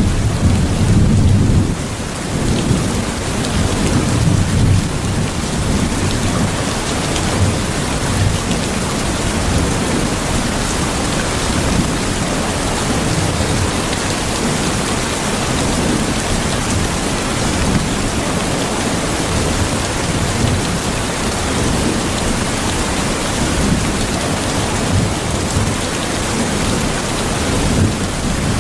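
Steady heavy rain with low rolling rumbles of thunder, the rumble strongest in the first few seconds.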